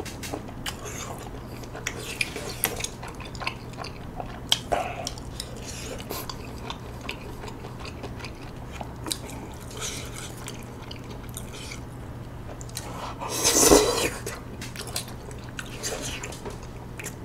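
Wet chewing and mouth sounds of eating soft rice cakes (tteokbokki) in sauce, with scattered small clicks of chopsticks on a bowl and a louder burst of mouth noise about thirteen seconds in. A steady low hum runs underneath.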